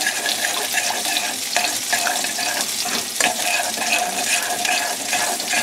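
Tuna steaks sizzling steadily as they pan-sear in a hot skillet, with a few light clicks from a utensil against a saucepan.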